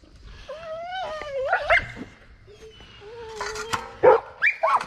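Dogs whining and yelping: a long wavering whine about a second in, another long whine from about three seconds in, then short sharp yelps near the end.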